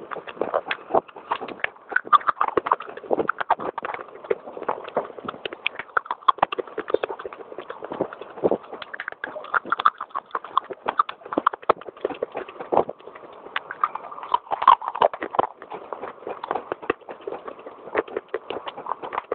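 Baked clay pot pieces being crunched and chewed close to the microphone: a fast, irregular run of sharp, crispy crunches with no let-up.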